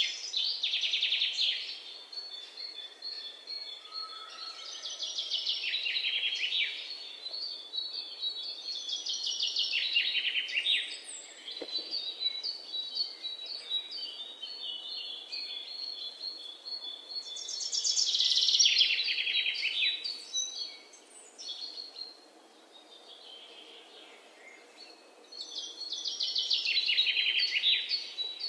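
Songbirds singing in bouts of rapid, falling chirping trills that come back every several seconds, over a faint steady hiss.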